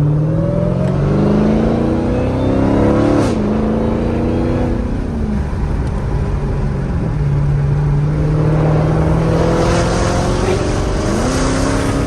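Dodge Hellcat's supercharged 6.2-litre Hemi V8 pulling under acceleration. Its pitch climbs, drops sharply at a gear change a little after three seconds, settles to a steady cruise and climbs again near the end.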